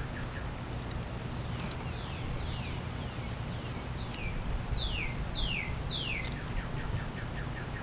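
A bird singing: a run of downslurred whistled notes, about two a second and growing louder, followed near the end by a quick series of short notes, over a steady low background rumble.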